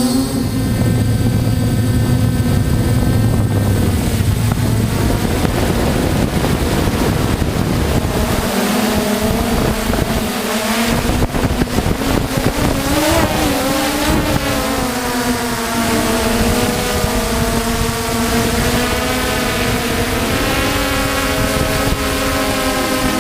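Motors and propellers of a DJI F550 hexacopter drone humming steadily, the pitch wavering up and down as the throttle changes, from about halfway through.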